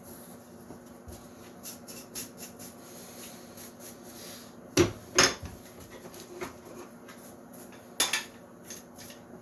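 Light clinking and knocking of metal tools and parts being handled on a workbench, with three sharper knocks: two at about five seconds in and one a few seconds later.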